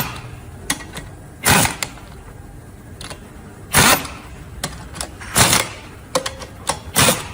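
Ratchet wrench tightening the bolts of a truck air-disc brake caliper's mechanism housing step by step in a cross pattern: a short burst of ratcheting every second or two, with light metallic clicks of tool and parts between.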